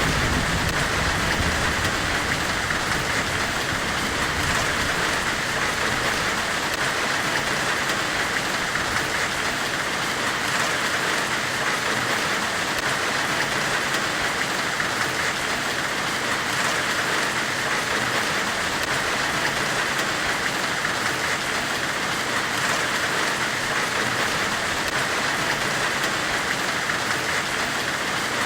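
Steady, even hiss of an ambient white-noise track styled on a forge weld, with the most energy in a high middle band and no breaks. A low rumble underneath fades out over the first few seconds.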